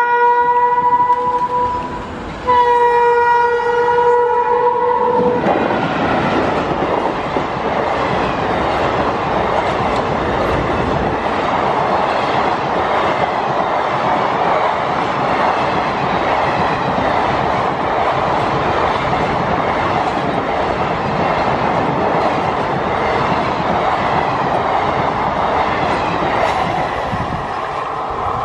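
Indian Railways train's horn sounding twice: one blast ends about a second in, and a second, longer blast follows. Then the train passes at high speed, with a loud steady noise of wheels on the rails for over twenty seconds.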